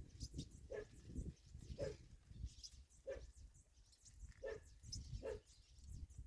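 A dog barking faintly in the distance, five short barks a second or so apart, with faint high bird chirps and a low rumble of wind or handling noise in the first part.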